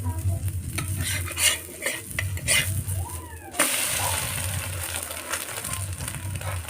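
Metal utensil clinking and scraping in a pan, then a sizzle that starts suddenly about three and a half seconds in and keeps going: an egg omelette frying in hot oil.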